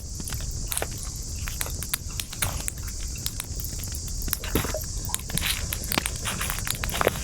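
Wood campfire crackling, with many sharp, irregular pops over a steady high hiss and a low rumble.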